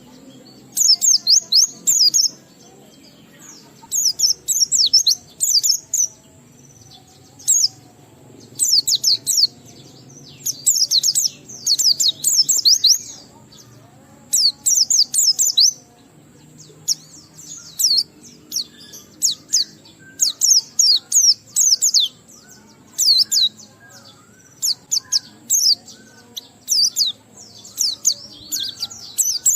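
White-eye (pleci) singing: bursts of fast, high-pitched twittering phrases, each one to two seconds long, repeated with short pauses between.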